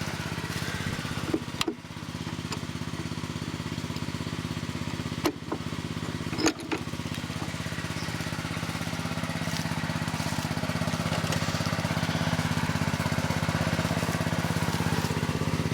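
A small engine running steadily with an even, rapid pulse, with a few sharp metallic knocks: one about a second and a half in, and two more around five and six and a half seconds.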